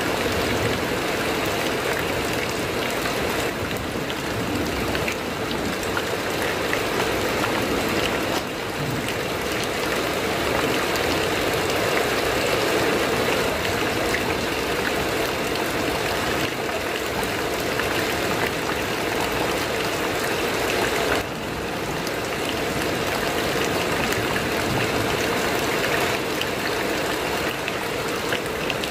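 Heavy rain falling on a corrugated metal roof: a steady, dense patter.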